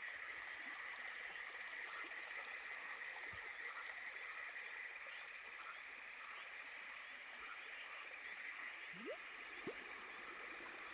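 Faint trickle and gurgle of a small forest stream, under a steady high-pitched drone and a higher hiss that swells and fades about every second and a half. Two brief rising chirps come about nine seconds in.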